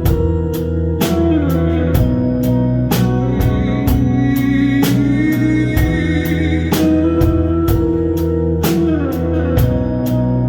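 Live band playing an instrumental passage: drum kit keeping a steady beat under electric guitar and bass, with bending, sliding guitar lines.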